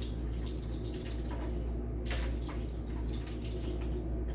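Liquid dripping and splashing in a cooking pan, a few short irregular splashes with the strongest about two seconds in, over a steady low hum.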